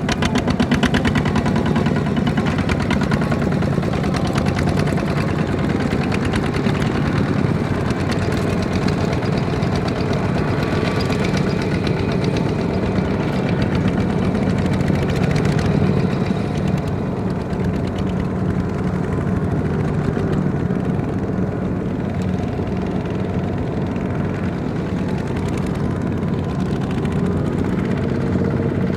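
Small farm tractor's Kubota ZT155 single-cylinder diesel engine running steadily with a rapid, even beat. It is a little louder in the first half and eases slightly after about 16 seconds.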